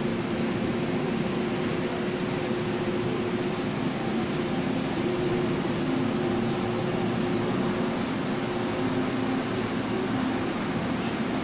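TRA PP push-pull Tze-Chiang express train moving past along an underground platform as it departs: a steady rolling hum with a constant low drone, echoing in the enclosed station.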